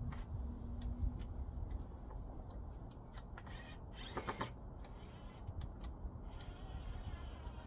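Scattered clicks and rattles of tools and metal parts being handled, with a short whir of a cordless drill about four seconds in. A steady low rumble runs underneath.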